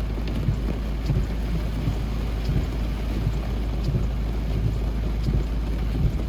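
Wind buffeting the microphone in uneven low gusts over a steady rumble.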